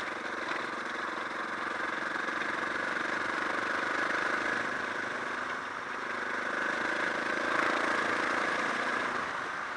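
Suzuki DR650's single-cylinder engine running steadily while the bike is ridden along a dirt track, its pitch and level swelling gently twice.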